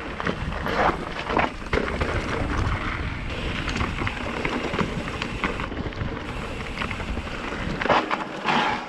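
2019 Commencal META TR 29 trail bike descending a rough mountain bike trail: wind buffeting the microphone and tyres rumbling over dirt and rock, with a steady stream of rattling knocks from the bike. A louder rush of noise comes near the end.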